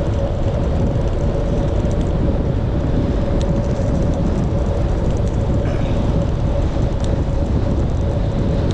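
Wind rushing over the microphone of a moving bicycle, a steady heavy rumble with a constant hum riding on top.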